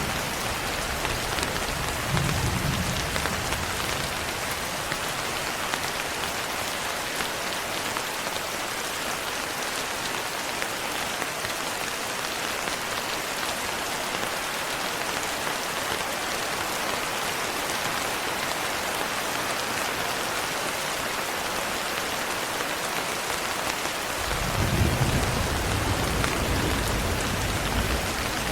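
Steady rain falling on a window glass. A short low rumble of thunder comes about two seconds in, and a longer, louder one near the end.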